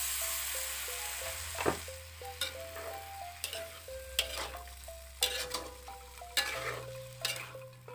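Tofu sizzling in a hot wok after a splash of water, the hiss fading over the first two seconds or so. Then a metal spatula scrapes and clacks against the wok as the tofu is stirred, about once a second.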